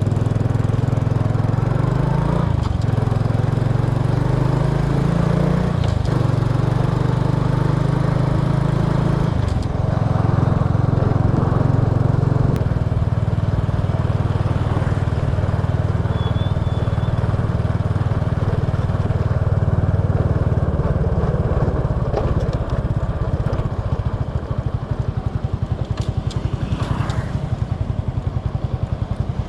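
Small motorbike's engine running steadily under way, its note shifting a few times in the first ten seconds.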